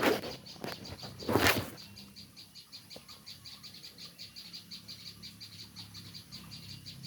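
Two short bursts of rustling in the first two seconds, then a steady run of high, evenly spaced chirps, about six a second.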